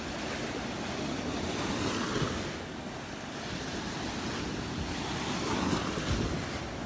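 Gulf of Mexico surf washing onto the beach, swelling twice as waves break, with wind buffeting the microphone.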